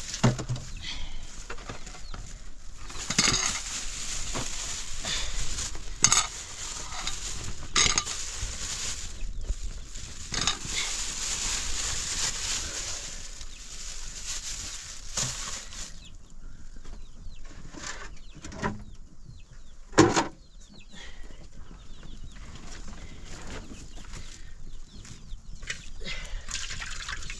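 Chickens clucking amid a steady hiss that fades out about two-thirds of the way through, with scattered sharp knocks, the loudest about twenty seconds in.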